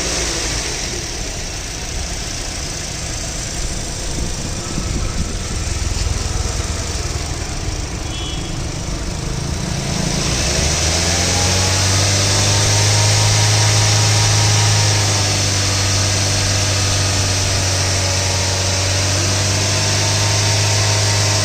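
2017 Toyota Corolla Altis engine idling just after being started. About ten seconds in, a louder steady hum with a slightly wavering pitch joins in and holds.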